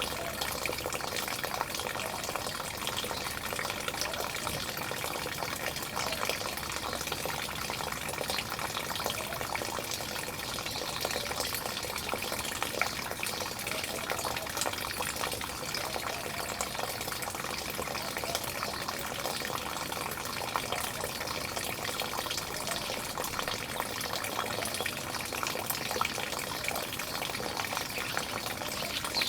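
Steady running, splashing water with many small splashes.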